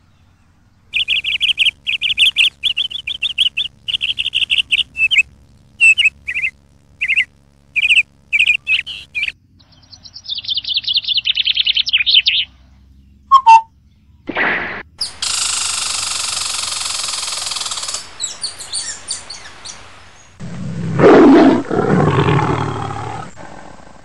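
Bird chirping in quick, repeated high notes for the first nine seconds or so, followed by a short falling trill. In the second half, louder sounds follow: a long hissing stretch, then a loud, deeper call near the end.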